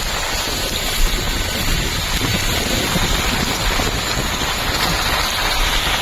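Snowstorm noise: a steady rushing of wind and driving snow, with a flickering low rumble of wind buffeting the microphone.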